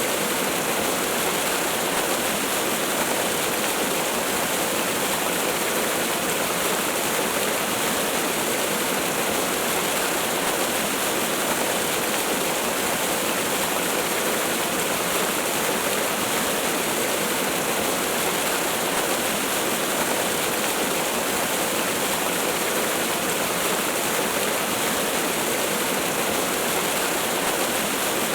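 Waterfall: a steady, unbroken rush of falling water, even throughout, with little deep rumble.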